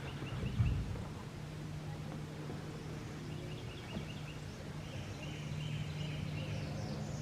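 Birds calling in quick runs of short chirps, heard a few times over a steady low hum.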